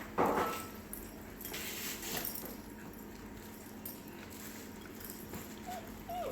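Airedoodle puppies: a short sharp yelp about a quarter second in, scuffling in between, then a high wavering whine near the end that falls off.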